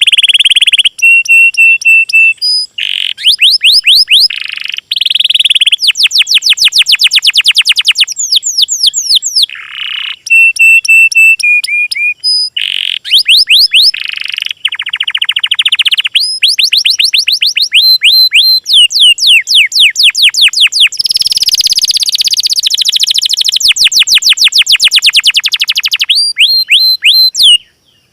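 Songs of small songbirds spliced back to back: loud high trills, fast runs of sweeping notes and short steady whistled tones, the pattern switching abruptly every second or two.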